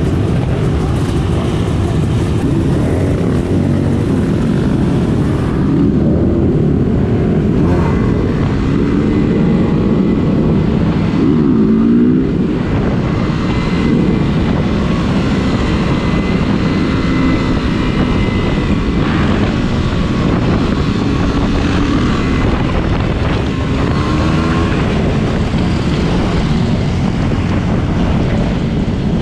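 Yamaha WR250X supermoto's single-cylinder engine running under way, its revs rising and falling a few times, under heavy wind rush on the microphone.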